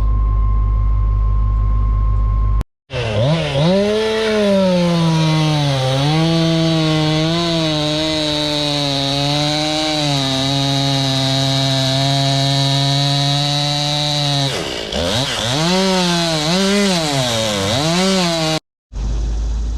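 A steady low engine drone, then after a sudden cut a two-stroke chainsaw revving and cutting for about fifteen seconds. Its pitch climbs and dips and holds lower while the chain is in the wood. The chainsaw stops abruptly with another cut back to the engine drone.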